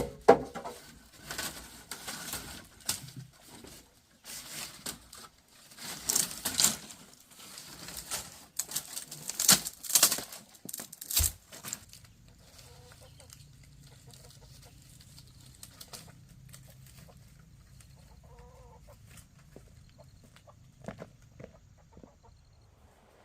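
Chickens clucking, with a busy run of sharp knocks and rustling that stops about halfway through, leaving a few soft clucks over a faint low hum.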